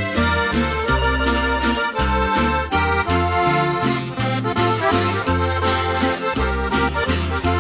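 Norteño music instrumental break with no singing: an accordion plays the melody over a bass line that steps from note to note.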